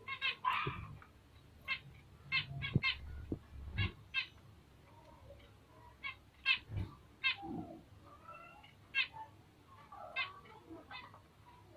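Bengalese finches giving short, quick chirps again and again, with a few soft knocks in between.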